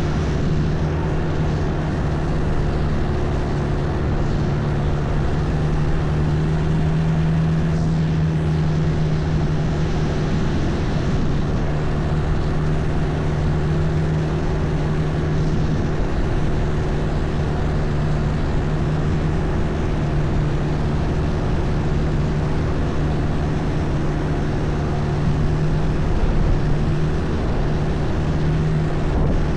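Longtail boat engine running steadily at cruising speed, a loud even drone with a constant hum, over the rush of water and wind.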